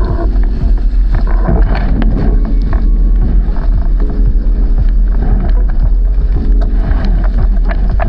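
Strong wind buffeting the microphone aboard a racing sailing dinghy, with rushing water and scattered short clicks and knocks from the boat.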